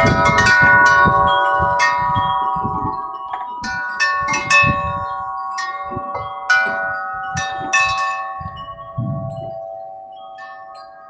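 Wind chimes ringing as the wind swings them: repeated strikes whose several tones ring on and overlap, thinning out near the end. Wind rumbles on the microphone, heaviest at the start and again about nine seconds in.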